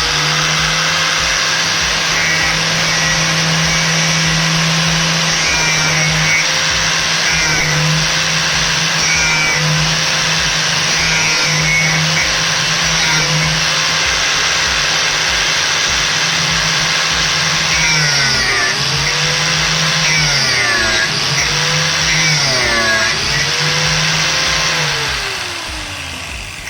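A small electric power tool motor runs at a steady high speed. In the second half it bogs down and picks back up about four times, as if loaded. Near the end it is switched off and winds down.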